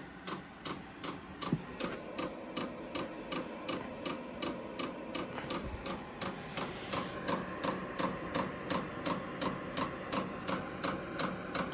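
Chinese diesel air heater starting up: its fuel dosing pump ticking evenly, about three to four times a second, over the steady hum of its blower fan.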